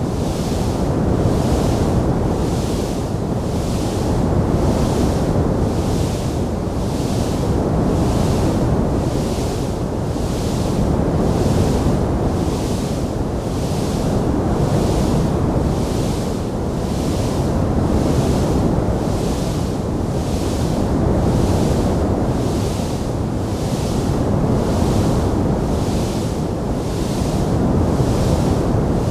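Wood fire burning in a fireplace: a steady low roar of flames, with a hiss that swells and fades in a regular pulse a little more than once a second.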